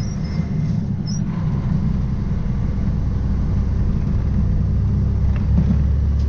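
Diesel semi truck engine running steadily while the truck is under way hauling a loaded trailer, a deep drone whose low note changes about five seconds in.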